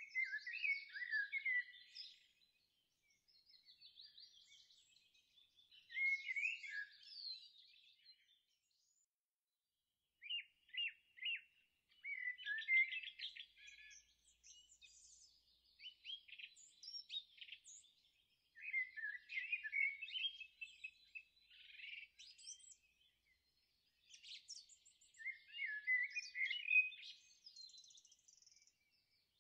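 Songbirds singing: a run of quick, high chirping and warbling phrases, each lasting a second or two, with short silent pauses between them.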